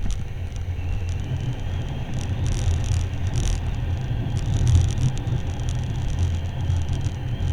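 Motorcycle ride heard from the rider's own microphone: a heavy, steady wind rumble, with a faint engine whine that rises about a second in.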